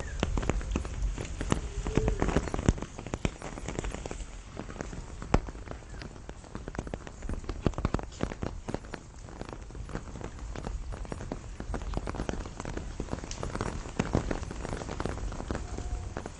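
Rain falling on the leaves and branches of a pomegranate tree, a steady patter of many irregular drops striking close by.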